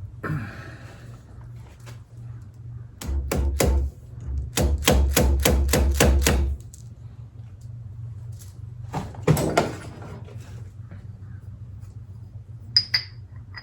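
Run of about ten sharp hammer taps, roughly three a second, on a motorcycle front-fork part being seated, then a couple more knocks and two small metal clinks near the end.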